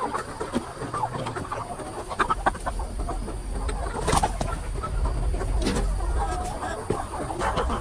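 A flock of capons clucking, with scattered short clicks and a sharp click about four seconds in.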